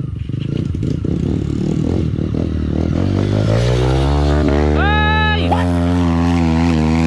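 Single-cylinder dirt bike engine (Honda CRF150L) chugging at low revs, then revved up over about a second and held at steady higher revs.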